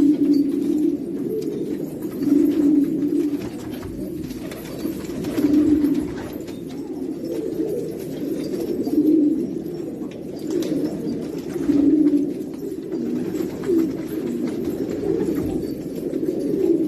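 Several domestic pigeons cooing, low coos overlapping continuously, with louder phrases swelling about every three seconds.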